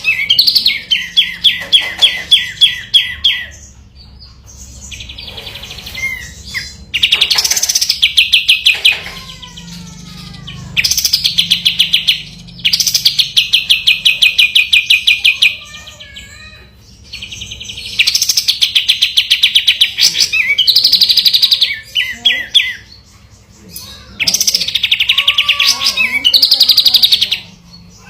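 Kapas tembak, a bulbul, singing long, fast rolling trills in bursts of a few seconds each, several times over. Fainter, slower whistled calls fill the gaps between the trills.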